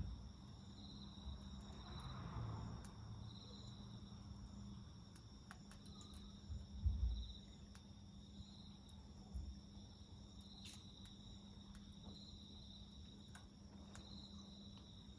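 Crickets chirping in a pulsing rhythm about once a second over a steady higher insect trill, with scattered sharp crackles from the wood fire. A low thump about seven seconds in.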